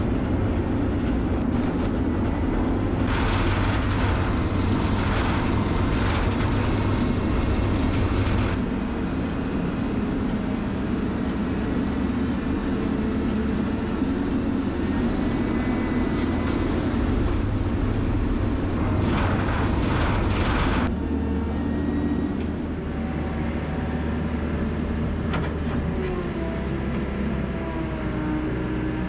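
Diesel engine of a Bergmann C912 tracked rotating dump truck running steadily under way, with louder stretches of mechanical noise about 3 to 8 seconds in and again near 20 seconds. The sound changes abruptly about 21 seconds in, to a slightly quieter engine note with some wavering pitch.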